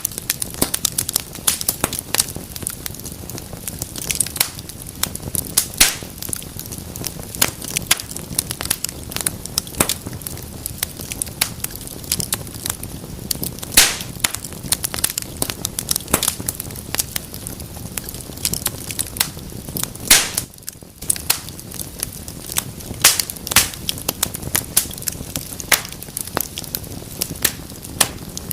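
Wood fire crackling in a fireplace: dense, irregular pops and snaps over a steady low hiss of burning, with a brief lull about twenty seconds in.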